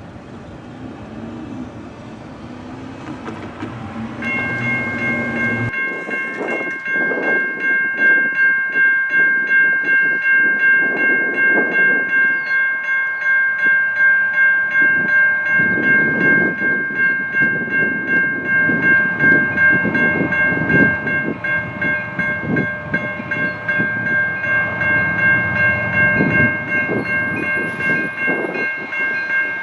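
A train passing close by: its rumble builds over the first few seconds, then the cars clatter over the rail joints in an even, pulsing rhythm. A steady high-pitched ringing tone comes in about four seconds in and holds throughout.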